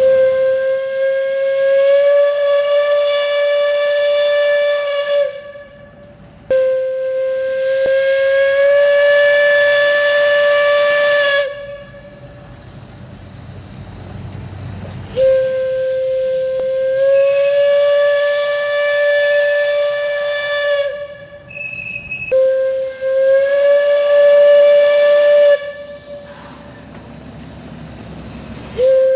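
Steam locomotive whistle blowing four long blasts of about five seconds each, a steady pitch that lifts slightly as each one goes on, over a hiss of steam. Each blast cuts off sharply, and a fifth begins right at the end.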